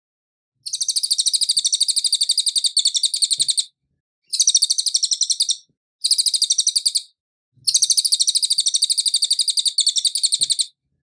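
Cililin bird singing four long, fast trills of evenly repeated high notes, several notes a second, with short pauses between them. This is the clear 'suara asli' song used as a masteran for songbirds to copy.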